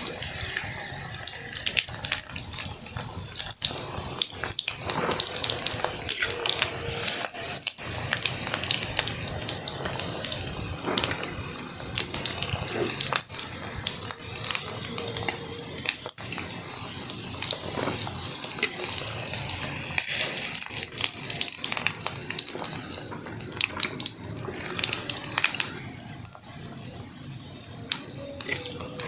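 Heavy rain falling steadily, with many small sharp crackles and patters throughout; it eases slightly near the end.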